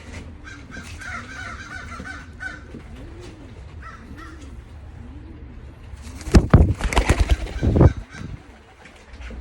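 Racing pigeons cooing in the loft: a run of low, rising-and-falling coos, about one a second, with higher chirping calls in the first couple of seconds. About six seconds in comes a loud flurry of rustling and thumps lasting under two seconds.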